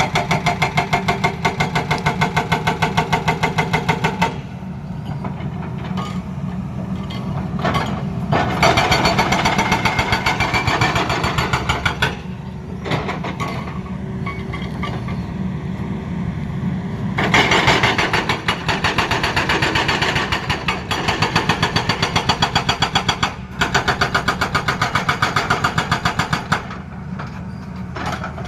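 Excavator-mounted hydraulic breaker hammering in rapid, evenly spaced blows, in four bursts of a few seconds each. The Tata Hitachi excavator's diesel engine runs steadily between the bursts.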